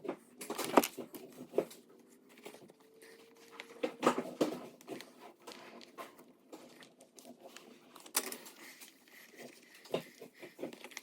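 Irregular light knocks, clicks and rustles of a piece of antler and tools being handled on a workbench, with a louder knock about four seconds in and another about eight seconds in.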